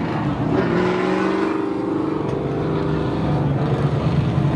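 Racing sport trucks' engines running hard at speed on a short oval, several engine notes overlapping. One pitch rises briefly about half a second in.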